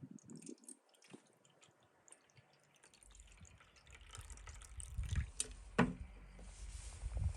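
Water dripping and being poured, with scattered small clicks and knocks.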